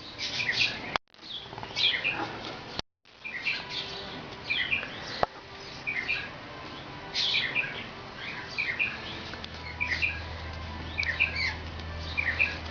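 Small birds chirping over and over in short quick notes. The sound drops out briefly twice in the first three seconds.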